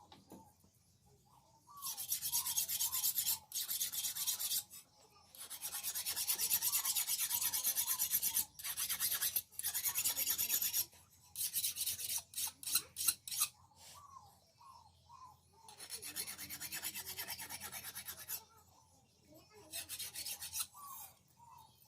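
Hand file rasping on a steel khukuri blade in bouts of quick strokes lasting a few seconds each, with short pauses between, a run of short separate strokes in the middle, and some bouts quieter than others.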